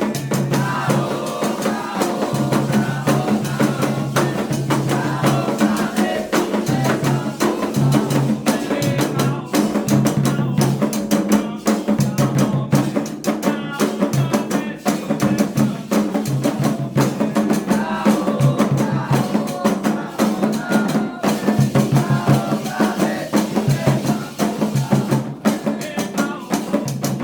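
Candomblé ritual music: hand drums beating a dense, steady rhythm with voices singing over them throughout.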